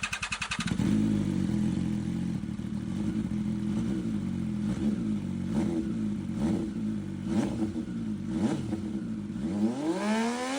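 MV Agusta motorcycle with an SC Project exhaust, dB killer fitted, being started: the starter cranks and the engine catches about a second in, then idles. Several short throttle blips follow, and a longer rev rises and falls near the end.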